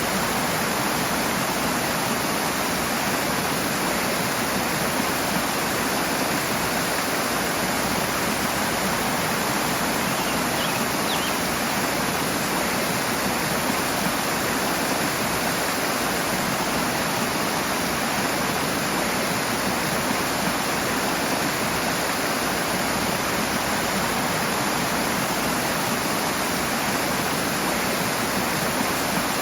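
Rushing water, a loud steady rush that does not change.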